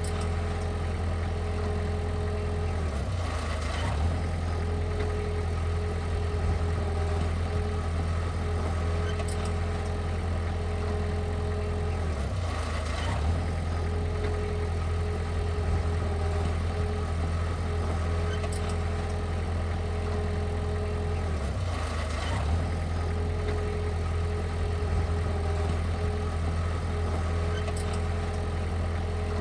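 Heavy-equipment diesel engine running steadily with a deep, constant drone. Its tone dips briefly about every nine seconds, with faint clicks.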